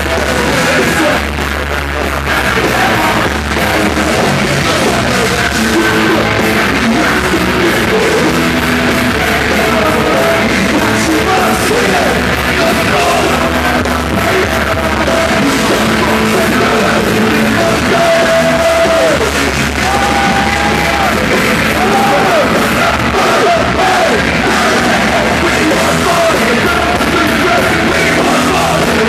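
Loud live rock band playing through a PA, with distorted guitars, drums and a shouted, yelled lead vocal.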